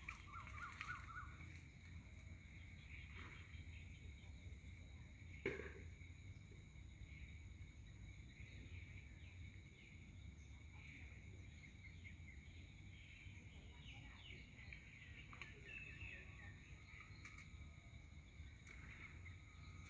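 Near silence: faint outdoor ambience with a steady high insect drone and a few faint bird chirps. One sharp knock about five and a half seconds in.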